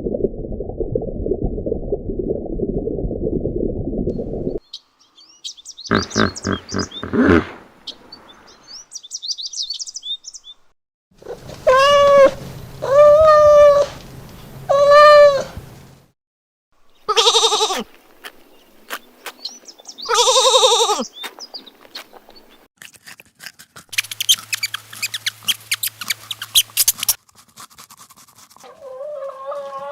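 A run of short, separate animal calls, the clearest being three similar drawn-out bleats about halfway through, each under a second long, like a goat's or sheep's.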